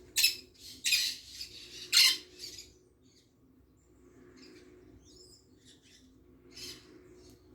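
Birds calling: three loud, harsh rasping bursts in the first two seconds and another weaker one near the end, with a faint thin chirp in between.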